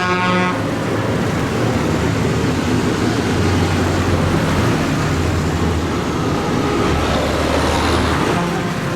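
Tractors and other vehicles in a road parade running past, a steady mix of engines and tyre noise with low engine drones swelling as machines go by. A held horn note cuts off about half a second in, and a horn sounds again near the end.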